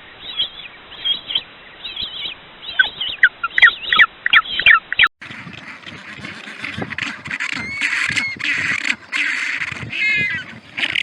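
Animal calls from two spliced recordings. First comes a run of short, high, pitch-bending calls that grows faster and louder. About five seconds in there is a sudden cut to a run of harsher, noisier calls in quick bursts.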